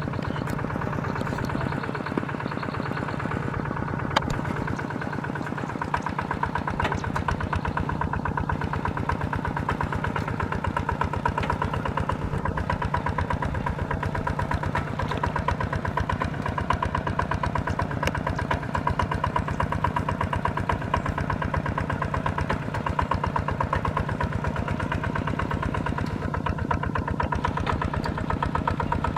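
Engine of a mini rice-plowing tractor running steadily, with a fast, even firing beat and no change in speed.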